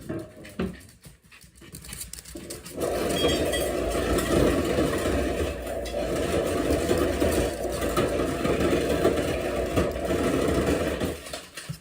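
Refrigerator door ice dispenser running in crushed-ice mode, crushing ice and dropping it out in a steady loud rattle. It starts about three seconds in and stops shortly before the end.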